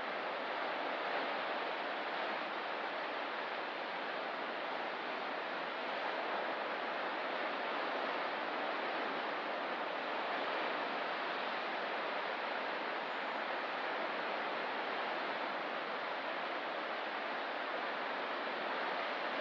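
Ocean surf making a steady, even rushing wash, with no separate breaking waves standing out.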